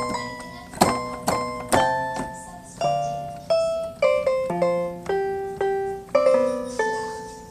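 Electronic keyboard with a piano sound playing an instrumental passage: chords struck every half second to a second, each left ringing and fading before the next.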